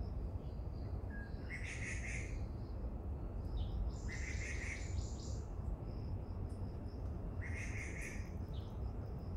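A bird calling, three short calls each under a second long, repeating about every three seconds over a steady low rumble.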